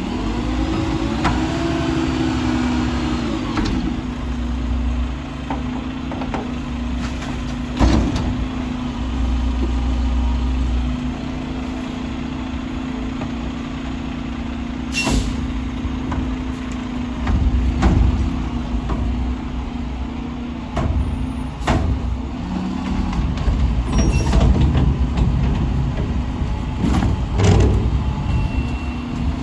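Mack LR garbage truck with a McNeilus Meridian body running with a steady drone. Its pitch rises and falls over the first few seconds as the truck revs. Scattered knocks and clanks follow, with a short air-brake hiss about halfway through.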